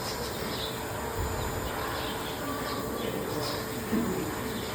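Busy animal-enclosure ambience: faint bird chirps and coos over a steady background hum, with distant voices.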